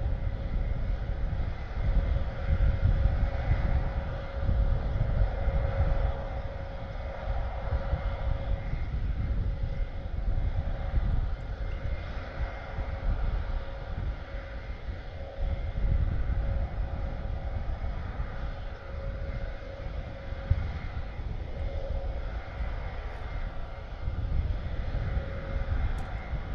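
Airbus A400M's four TP400 turboprop engines running steadily while the aircraft holds on the ground before takeoff: an even rumble with a constant tone above it.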